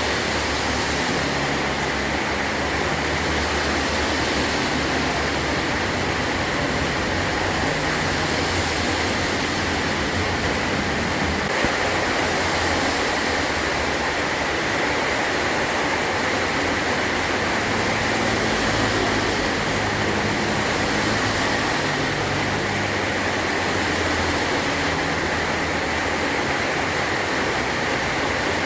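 Heavy rain drumming steadily on a metal roof, an even hiss with a low rumble that swells and fades underneath.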